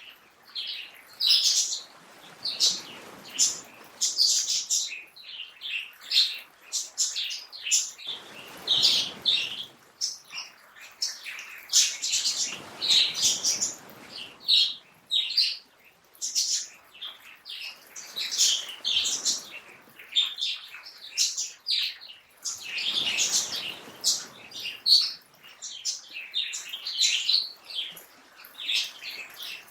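Many small birds chirping and twittering in quick, overlapping calls. A soft rushing sound swells and fades several times underneath.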